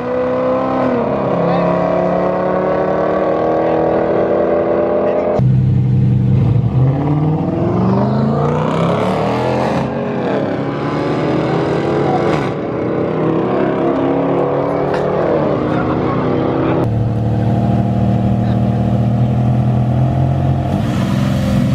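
Car engines revving and accelerating, their pitch climbing and falling, with the sound changing abruptly twice.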